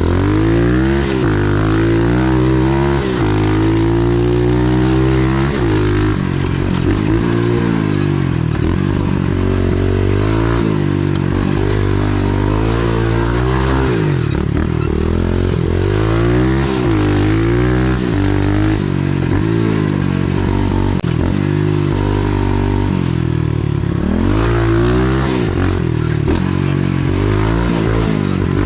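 A 125cc pit bike's single-cylinder four-stroke engine being ridden, revving up and dropping back over and over as the throttle opens and closes, its pitch rising and falling every few seconds.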